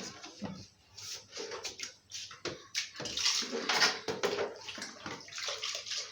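Water splashing and sloshing in irregular short bursts, with small knocks among them.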